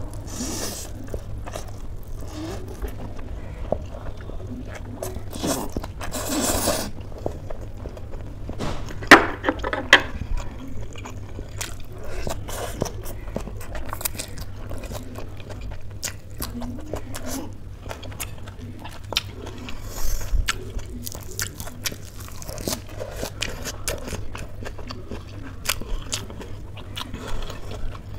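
Close-miked ASMR eating: wet chewing and smacking of spicy instant noodles and crunching of raw shredded cabbage, with many small mouth clicks. A few louder bites stand out, the loudest about nine seconds in.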